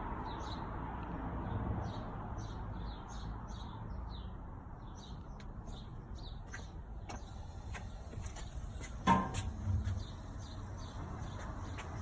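A 2015 A. O. Smith water heater's burner turning on: about seven seconds in a faint high steady tone begins, and about two seconds later comes a sudden loud thud as the burner lights, with a smaller one just after. Small bird chirps sound over a low steady rumble before it.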